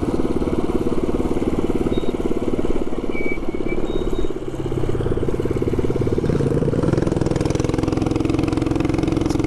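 The single-cylinder four-stroke engine of a 224cc mini bike with a short straight pipe exhaust, running steadily and loudly. Its level dips briefly about four and a half seconds in.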